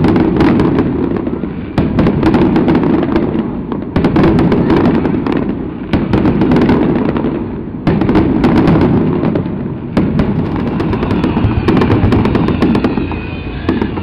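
Aerial fireworks in a display finale: rapid, overlapping bursts of shells booming and crackling with little pause between them, the loudness surging again about every two seconds.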